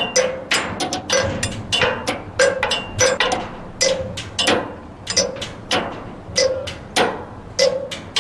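Improvised percussion: hard surfaces struck by hand or stick in a loose rhythm of about two to three knocks a second, many of them giving a short hollow ringing note.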